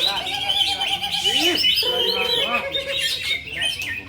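Several caged cucak ijo (green leafbirds) singing at once: a dense, overlapping mix of clear whistles, rapid trills and quick rising and falling chirps.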